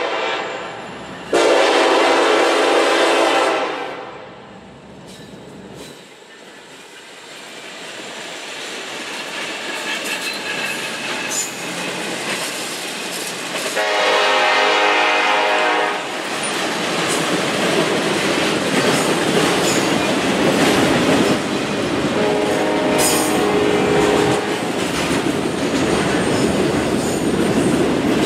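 Freight locomotive horn sounding a short blast and then a long one at the start as the train nears a grade crossing, then two more blasts around the middle and about three-quarters in. Between the blasts the train's autorack cars roll past with wheels clacking over the rail joints, growing louder.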